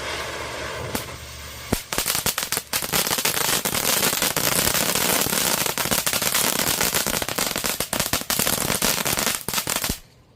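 Consumer firework fountain (Monkey Mania 3-minute fountain) burning: a steady rushing spray, then about two seconds in dense rapid crackling that stops abruptly near the end.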